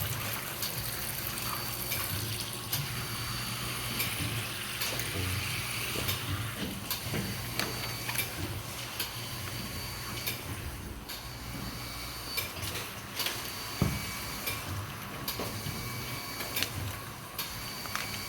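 Water running and splashing in a Jiffy peat-pellet expanding machine as it wets the pellets, over a steady machine hum with regular sharp clicks.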